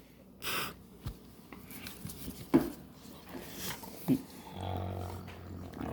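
Sleeping puppy snoring and breathing noisily through her nose: a puff of air about half a second in, a few short snorts, and a low drawn-out snore over the last second or so.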